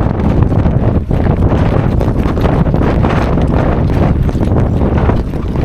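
Strong wind buffeting the microphone: a loud, constant rumble with irregular gusty flutter.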